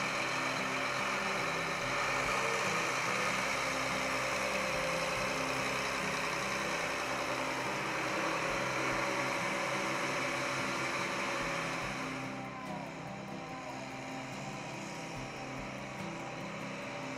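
The diesel engine of a New Holland T9030 tractor running steadily, easing down a little about twelve seconds in.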